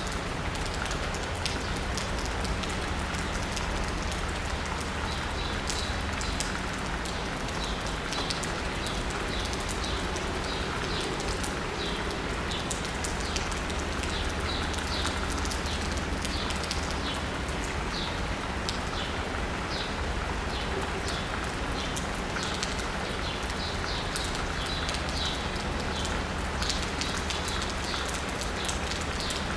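Steady rain pattering on asphalt and rooftops, with birds chirping again and again through it. A low steady hum of city traffic runs underneath.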